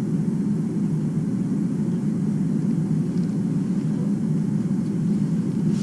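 A steady, unchanging low rumble of background noise.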